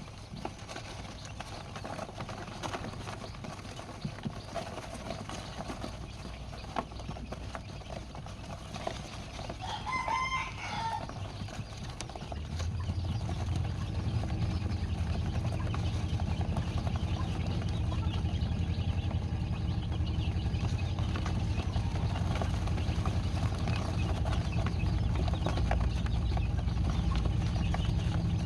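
A rooster crows once about ten seconds in. From about twelve seconds a steady low hum sets in and becomes the loudest sound.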